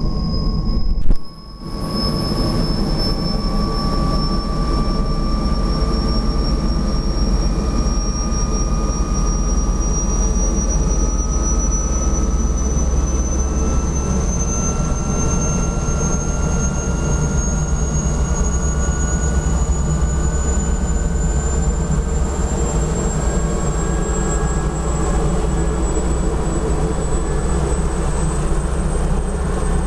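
Helicopter in flight, its engine and rotor running steadily, with a high whine that slowly rises in pitch throughout. A brief dropout about a second in.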